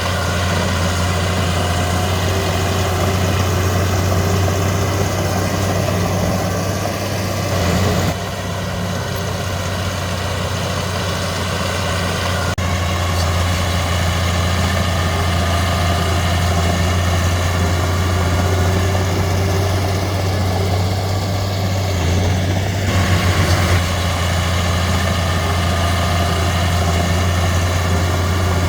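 Heavy diesel engine running steadily with a deep, even hum. The level dips briefly about a third of the way in, and there is a short rattle a bit past three-quarters of the way through.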